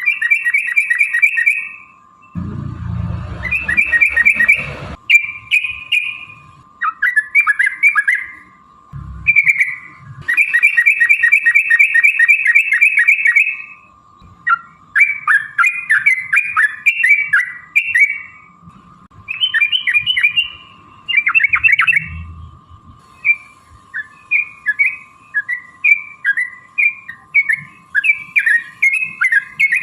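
Yellow-vented bulbul (trucukan) singing in long rapid rolls of bubbly repeated notes, broken by shorter phrases, with a faint steady tone beneath.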